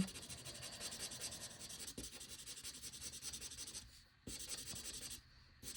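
Ohuhu alcohol marker tip rubbing across paper in faint, scratchy strokes as colour is laid down, with two short breaks in the second half where the marker lifts.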